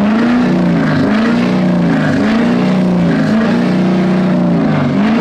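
Pickup truck engine revved hard again and again, its pitch climbing and dropping about once a second, with one longer held rev in the second half.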